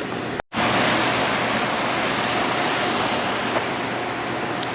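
Steady rush of fast-flowing river water below a dam spillway, with a faint steady hum underneath; the sound drops out completely for a moment about half a second in.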